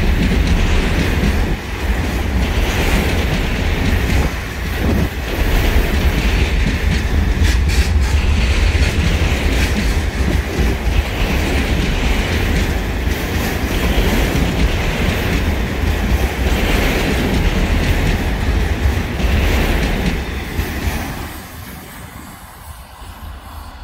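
Freight train of enclosed car-carrier wagons rolling past close by: a loud, steady rumble of steel wheels on the rails, with a clatter that swells every couple of seconds as the wagons go by. It falls away sharply about 21 seconds in as the last wagon passes.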